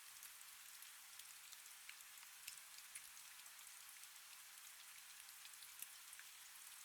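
Faint steady rain: an even hiss with scattered ticks from individual drops.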